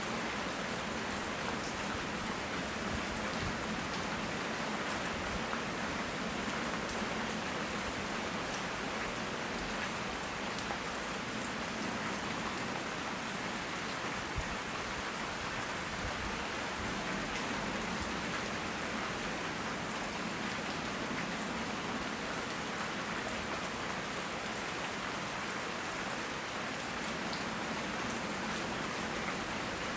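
Steady rain falling, with scattered drops ticking on hard surfaces and one small sharp tick about fourteen seconds in.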